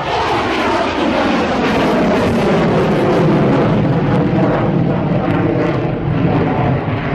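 Loud fixed-wing aircraft engine noise, its pitch sliding steadily down as the plane passes and moves away.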